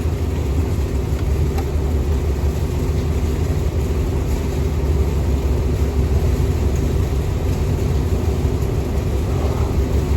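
Boat motor running steadily, a low rumble with a constant hum.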